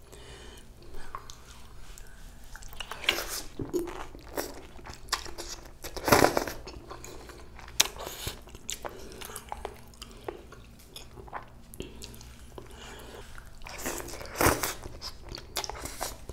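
Close-miked eating: crunchy bites and chewing in irregular crackles, with the loudest crunch about six seconds in and another near the end.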